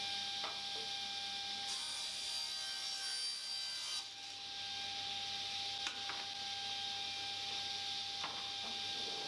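A workshop power saw cutting plywood to size, a steady machine hum with a brighter stretch of cutting noise from about two to four seconds in. A few light knocks follow later.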